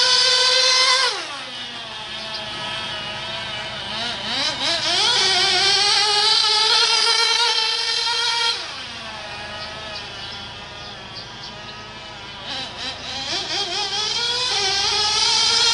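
Tiny 0.98cc two-stroke nitro glow engine of a 1/16-scale RC buggy, running at a high, buzzing full-throttle pitch. It comes off throttle about a second in, its pitch falling steeply, then winds back up to full revs. It backs off the same way again about halfway through, then revs up once more near the end.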